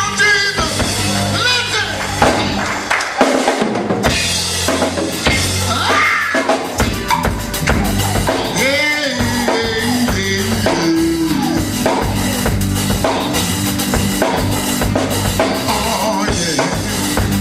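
Gospel quartet band playing, led by a drum kit over a steady low bass line, with a voice or lead line coming in briefly now and then.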